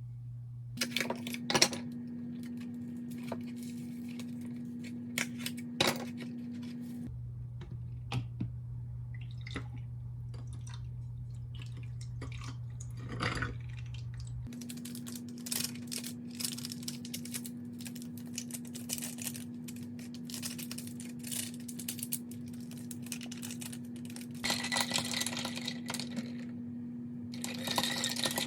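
Kitchen handling sounds: dishes and utensils clicking and clattering over a steady low appliance hum that shifts pitch abruptly a few times, with water running from a tap twice near the end.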